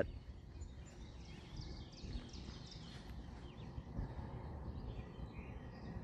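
Faint birds chirping over a low, steady background rumble.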